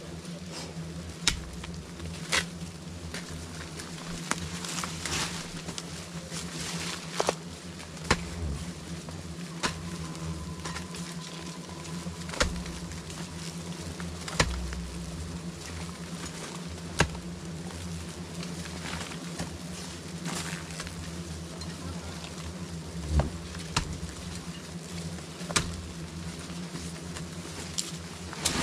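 A swarm of bees buzzing in a steady low drone, with sharp clicks or knocks at irregular intervals, about a dozen in all.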